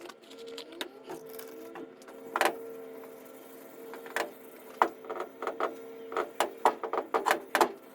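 Brillo steel-wool pad scrubbing rust off a steel roll-bar light bar: irregular short scraping strokes that come faster near the end, over a steady low hum.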